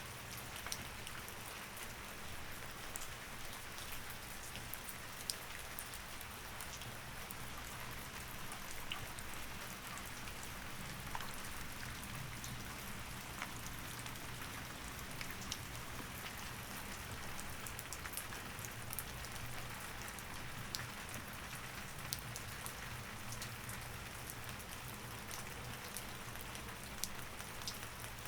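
Steady rain falling, with scattered individual drops ticking sharply over it and a faint low hum underneath.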